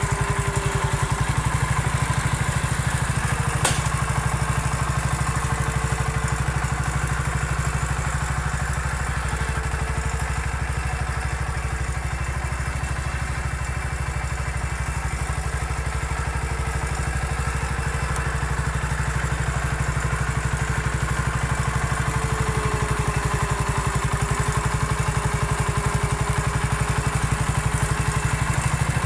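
Massey Ferguson 14 garden tractor engine running steadily, its pitch wavering slightly as the load changes, with one sharp click about four seconds in.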